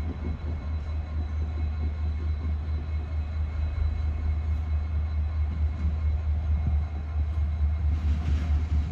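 Train rumbling steadily, a deep low drone with a rough clatter over it.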